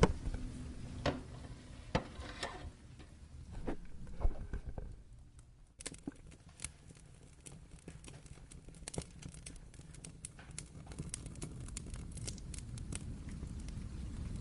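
Wood fire crackling with many irregular sharp pops and snaps over a faint hiss of rain. A low rumble underneath fades out about six seconds in.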